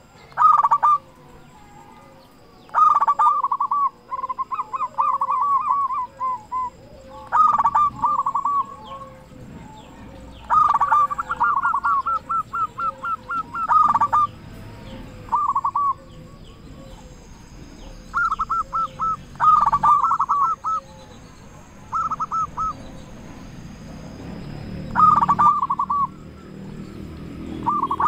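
Zebra dove (perkutut) cooing: loud phrases of rapid, stuttering notes, repeated every two to three seconds.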